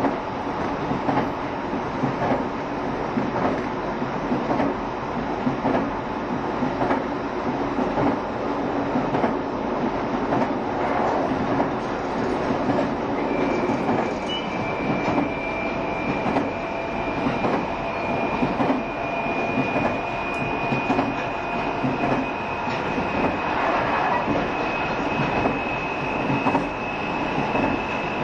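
JR Shikoku 7200 series electric train running along the line, with a steady rumble and a regular clickety-clack of wheels over rail joints. About halfway through, a high steady whine joins in and rises slightly in pitch toward the end.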